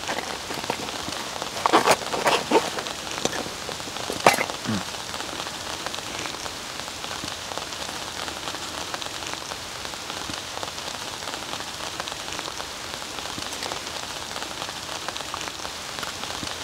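Steady rain falling on the forest leaves and ground. A few short sharp sounds stand out at about two and four seconds in.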